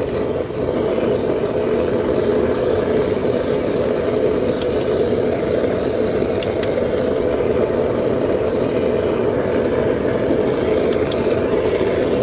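Propane burner of a homemade foundry furnace running with a steady, loud roar-like rush while melting aluminum, with a few faint clicks.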